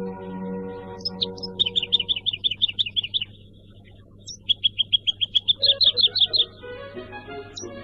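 Songbird trills: two runs of rapid, high, downward-slurred notes, about ten a second, each run lasting a second or two, over soft sustained background music.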